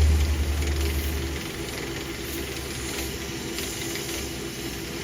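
Woodturning lathe running with a workpiece held in a homemade jig: a strong low hum for the first second and a half that then eases, under a steady hiss.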